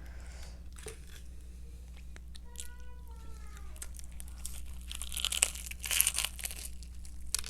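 Crackling and crinkling of crispy fried chicken being handled and pulled apart, with a few sharp clicks and louder crackly bursts between about five and six and a half seconds in. A brief falling tone sounds about three seconds in.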